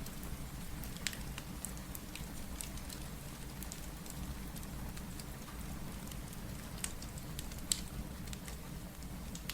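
Steady rain with a crackling wood fire: an even rush of rain under scattered sharp crackles and pops from the fire, the loudest pops about a second in and twice near the end.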